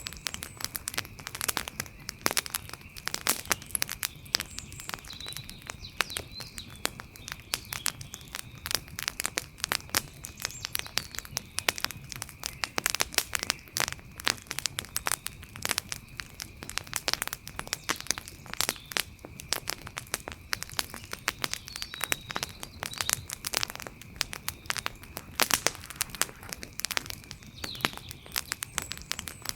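Outdoor wood fire crackling, with dense irregular pops and snaps throughout and a faint steady high tone underneath.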